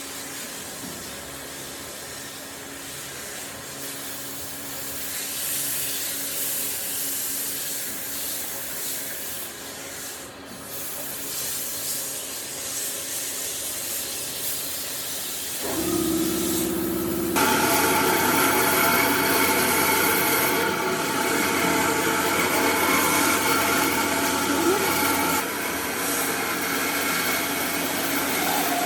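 Wood being rubbed or sanded, a steady scraping hiss. About sixteen seconds in it changes, and a louder power tool runs steadily with a constant hum to the end.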